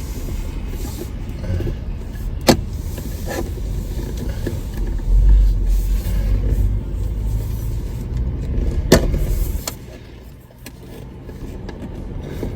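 Car running, heard from inside the cabin: a steady low engine and road rumble that swells in the middle and eases near the end, with two sharp clicks, one early and one about three quarters of the way through.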